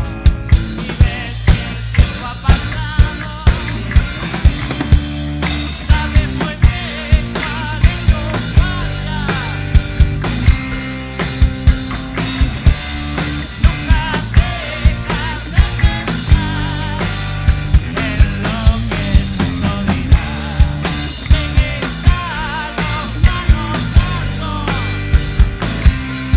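Rock band playing an instrumental passage, the drum kit keeping a steady beat with about two strong hits a second under bass and melodic lines.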